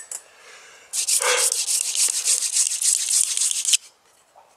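Hand-drill friction fire: a wooden spindle spun back and forth between the palms, grinding in the socket of a wooden hearth board. It makes a fast, rhythmic scraping at about four strokes a second for nearly three seconds, then stops suddenly.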